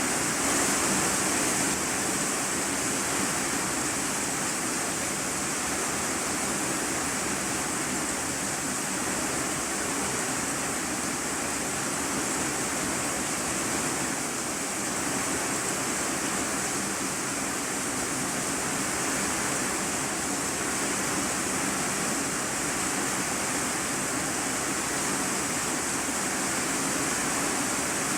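Heavy rain drumming on a corrugated iron-sheet roof, heard from inside the room below, a steady dense hiss with no let-up.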